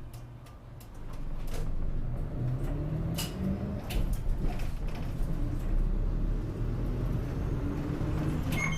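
City route bus heard from inside the cabin, pulling away from a stop: the engine is quiet for about a second, then its note rises as the bus accelerates, with a few light clicks and rattles.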